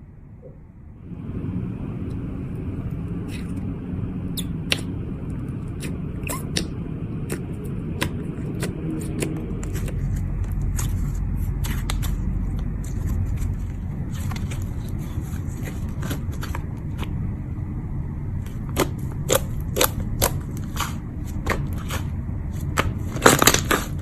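Slime being pressed and worked by hand: scattered sticky clicks and crackles, with a quick run of louder pops near the end, over a steady low background noise.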